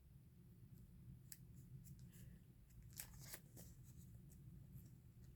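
Near silence: a low steady room hum with a few faint, crisp rustles and snips of paper being handled, clustered about three seconds in.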